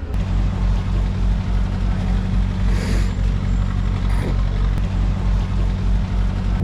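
Tour boat's engine running steadily, a constant low hum with no change in pitch.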